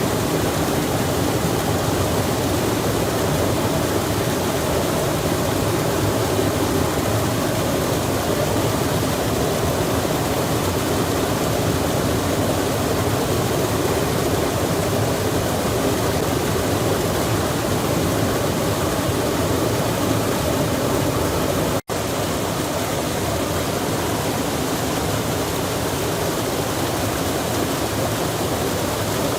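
Rain falling by a stream, with the stream's rushing water as a steady, even wash of noise. The sound cuts out for an instant about 22 seconds in, then resumes unchanged.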